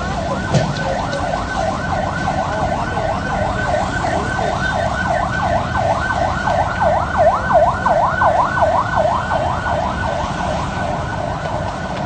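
Emergency vehicle siren on a fast yelp, its pitch sweeping up and down about four times a second, over a steady background rumble.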